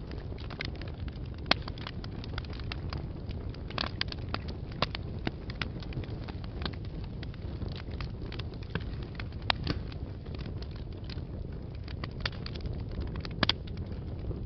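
Wood fire burning in a fireplace: a steady low rumble of flames with irregular crackles and pops throughout, a few sharper pops standing out.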